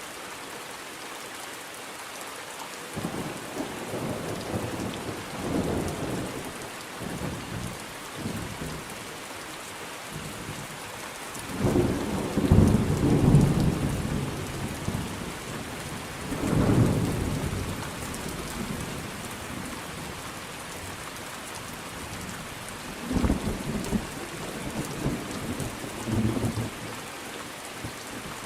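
Thunderstorm: steady rain falling, with thunder rumbling over it in several rolls; the loudest roll comes about twelve seconds in, with further rolls around sixteen seconds and again near the end.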